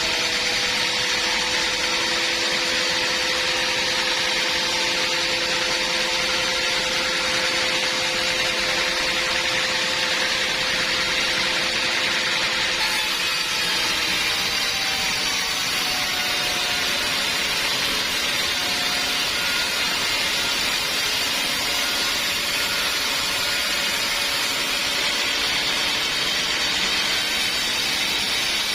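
Sawmill band saw running steadily as it cuts through timber, a constant loud machine noise whose tone shifts about halfway through.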